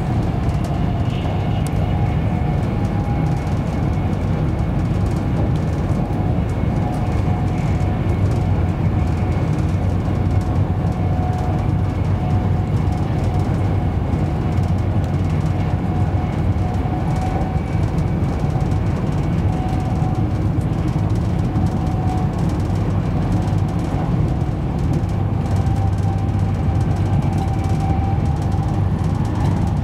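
Inside the carriage of a Class 390 Pendolino electric train running at speed: a steady rumble of wheels on the track, with a faint whine held on a couple of steady notes.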